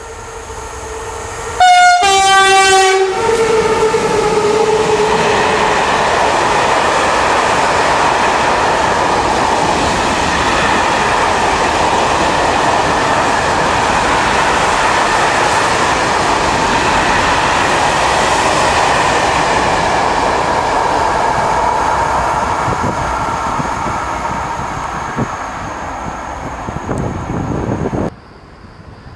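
A passing train sounds a two-note horn, a higher note then a lower one, about two seconds in. It then rushes past with a long, loud, steady noise of wheels on rail, which cuts off suddenly near the end.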